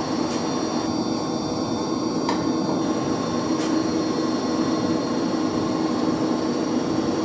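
Steady hum and whir of running heating circulation pumps and their electric motors in a pump room, with a few faint metallic ticks.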